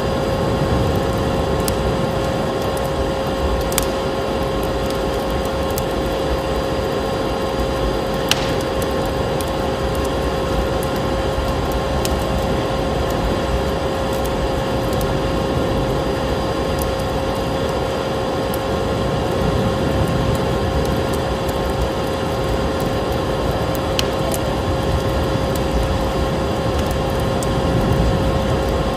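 Fireplace fire crackling, with a few sharp pops, over a steady rushing noise and the constant hum of a vacuum cleaner.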